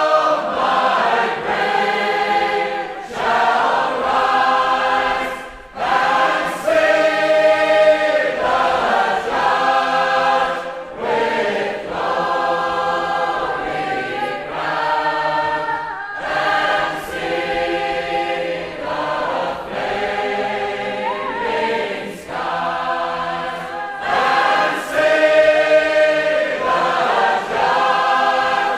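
A choir singing sustained chords that change every second or two, with no beat.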